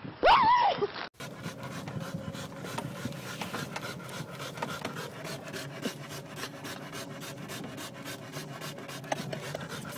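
A short, loud rising-and-falling cry in the first second. Then, after a cut, a dog pants fast and raspy, with rapid steady breaths over the low running noise of a moving vehicle.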